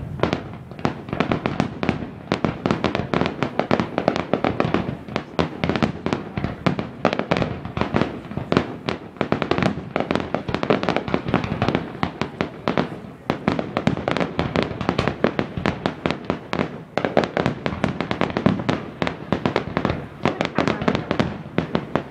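Fireworks display: a dense, continuous barrage of bangs and crackles from bursting shells, easing briefly about thirteen and seventeen seconds in.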